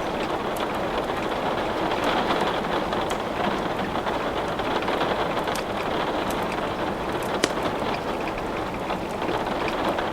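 Steady rain with scattered crackles and pops from wood burning in a fireplace, one sharper pop about seven seconds in.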